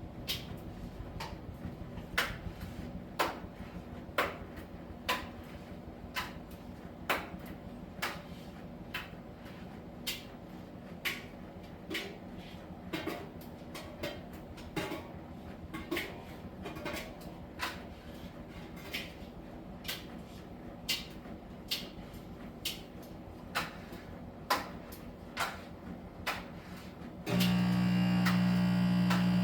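Miele T1 heat-pump tumble dryer running at the start of its steam cycle. The drum turns with a sharp click about once a second, one click per turn. Near the end a loud, steady low hum cuts in abruptly.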